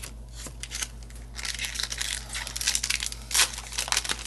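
Foil trading-card booster pack wrapper crinkling as it is handled and opened, a dense crackle that starts about a second and a half in after a few light clicks.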